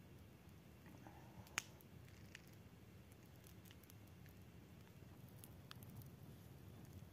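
Near silence with a low background hiss and a few faint scattered clicks, one sharper click about a second and a half in.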